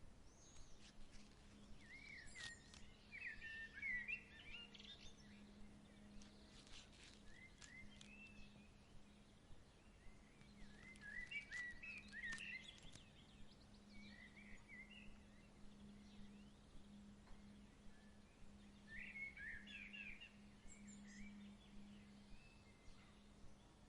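Faint evening birdsong: a songbird sings short chirping, warbling phrases in clusters every few seconds. Under it runs a low steady hum, with a few soft clicks.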